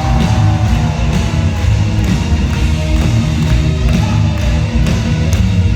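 Live band music played loud through a concert PA, with a heavy drum beat of about two hits a second over deep bass.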